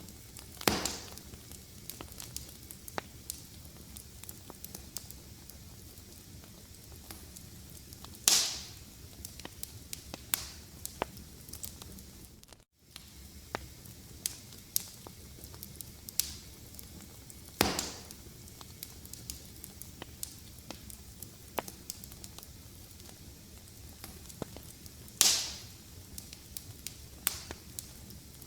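Wood fire crackling steadily with many small ticks and a louder pop roughly every eight seconds, four in all. The sound cuts out for a split second about halfway through.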